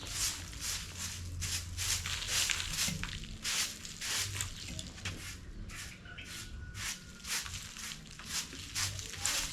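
Repeated scraping strokes, about two a second, as chicken manure is cleared out of a chicken house.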